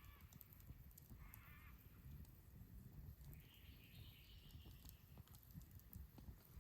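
Faint bird calls, three in turn, the middle one short and the last higher and longer, over a low steady rumble.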